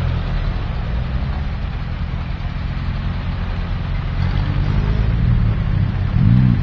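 Off-road 4x4 engines running close by, a steady low rumble, with one engine briefly revved up and back down near the end.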